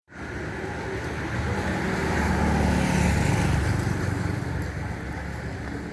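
A motor vehicle engine running, growing louder toward the middle and then easing off.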